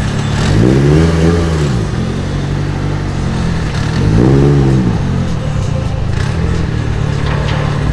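Car engine idling, blipped twice: each rev rises and falls back to idle within about a second.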